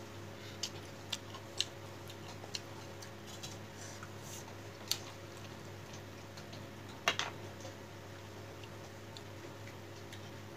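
Eating sounds at close range: scattered, irregular mouth clicks and smacks of someone chewing, the loudest a double click about seven seconds in, over a steady low hum.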